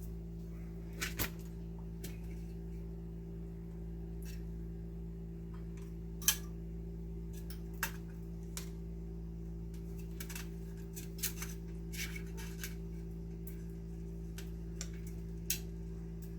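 Scattered small clicks and taps from hands working on electrical wiring, handling wires, terminals and small tools, over a steady low hum. The sharpest click comes about six seconds in.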